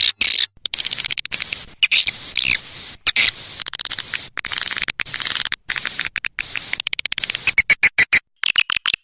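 Swiftlets calling: a dense, fast twittering chatter of high chirps and clicks, broken by many short gaps.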